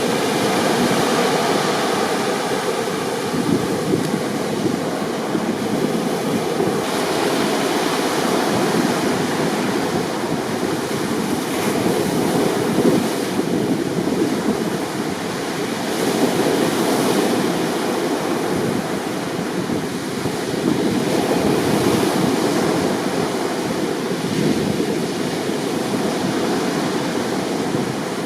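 Rough sea: heavy surf breaking continuously, with the level swelling and easing every few seconds.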